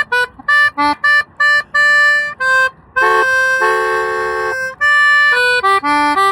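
Accordion playing a simple tune: a run of short, separate notes, then a chord held for about a second and a half starting about three seconds in, then more short notes.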